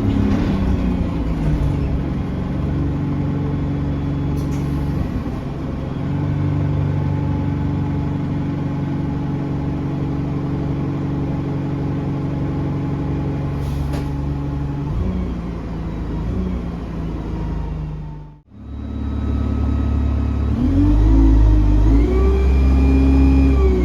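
Bus engine running, heard on board, with its pitch shifting as the bus changes speed. The sound cuts out briefly about three-quarters of the way through, then the engine pulls harder near the end, with its note rising and falling.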